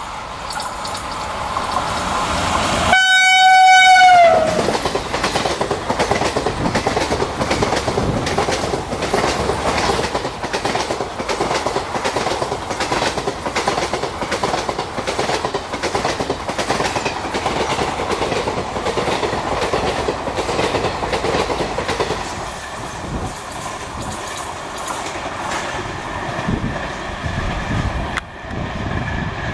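A WAP-5 electric locomotive sounds one loud horn blast as it passes fast, the horn's pitch dropping as it goes by. Then the train's coaches rush past with a steady rhythmic clickety-clack of wheels over the rail joints, easing off near the end.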